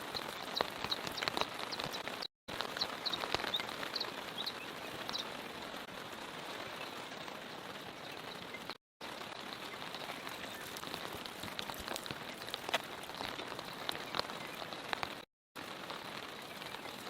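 Steady rain falling, with many small scattered drop ticks; the sound cuts out to silence briefly three times.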